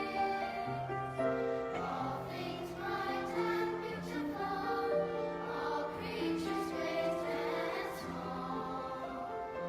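A choir singing a Christian hymn with long held notes.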